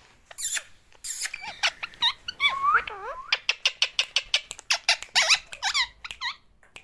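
Lovebirds calling: two harsh screeches in the first second or so, then rapid high-pitched chirping, several calls a second, that breaks off near the end.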